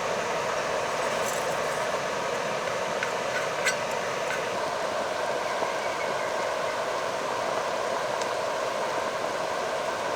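Mountain stream water rushing steadily, with a couple of faint clicks in the first few seconds.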